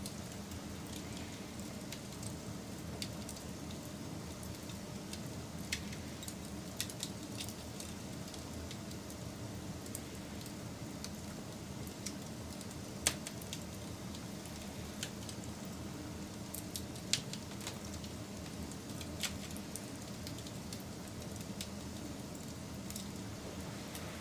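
Wood fire burning with a steady low rush, broken by irregular sharp crackles and pops, a few of them louder than the rest.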